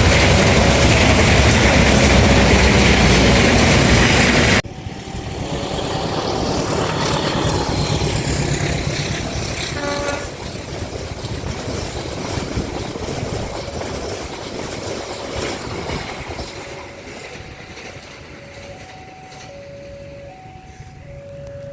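Dharmawangsa passenger train passing close by, its wheels and carriages loud until the noise drops suddenly about four and a half seconds in. The quieter train noise then fades away, and near the end a repeating two-note tone sounds.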